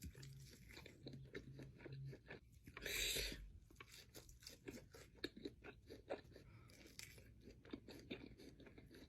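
Close-miked chewing of crispy fried chicken wings: a louder crunchy bite about three seconds in, then quiet chewing with many small crunches and mouth clicks.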